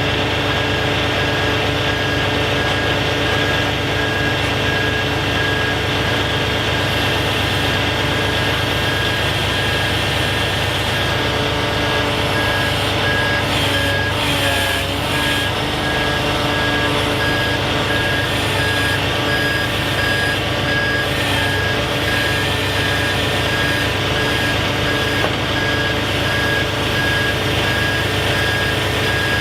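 Truck back-up alarm beeping steadily in an even on-off rhythm over the Kenworth T880 hook truck's diesel engine running: the truck reversing.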